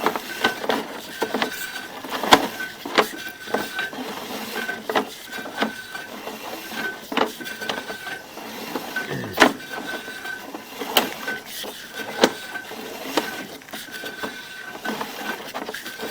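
Drain inspection camera gear working through a sewer pipe: irregular clicks and knocks from the push rod and camera head. A short high electronic beep repeats roughly once a second.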